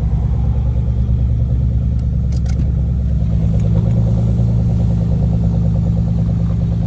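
Car engine droning steadily at a constant highway pace, with road noise under it.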